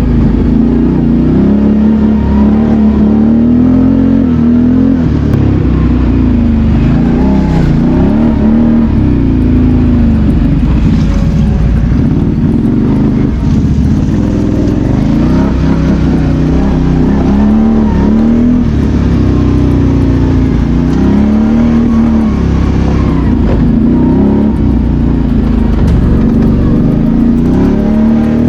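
BRP Outlander 650 ATV's V-twin engine working under load as it is ridden over rough ground, its pitch rising and falling every second or two as the throttle is opened and eased.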